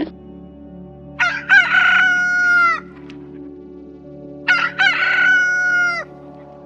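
A rooster crowing twice, each crow about a second and a half long and dropping in pitch at the end, over a steady low drone.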